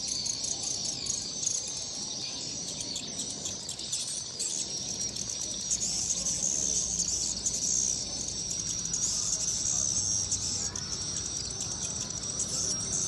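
Swiftlets calling: a dense, continuous high-pitched twittering, the sound used and heard at a swiftlet house as the birds come in at dusk.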